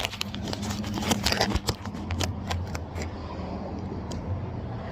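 Quick clicks and scrapes from handling wheel and tools during a tire change, thinning out after about two seconds, over a steady low hum.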